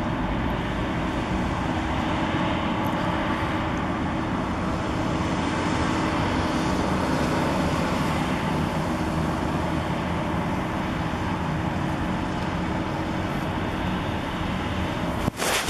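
Steady city traffic noise, a continuous even rumble with a faint low hum through it. Near the end a few sharp clicks and a brief drop in level break in.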